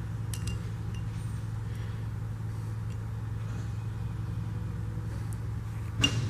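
Steady low hum in the workshop, with a few faint light metal clicks as small transmission parts are handled during a test fit, and a brief louder sound near the end.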